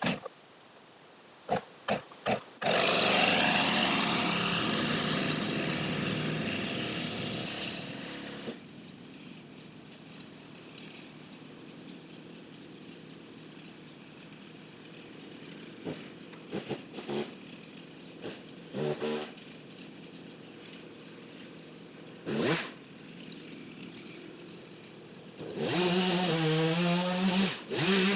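A two-stroke chainsaw revs hard for a few seconds and then dies away. Scattered knocks and clicks follow over a low background, and near the end the saw revs up again in several rising and falling bursts.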